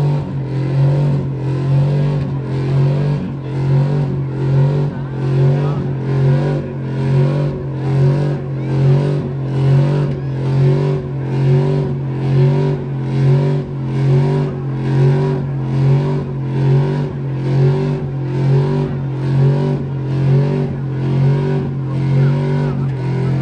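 Vehicle engine revved hard in a steady rhythm, its pitch swelling up and falling back a little faster than once a second, over and over.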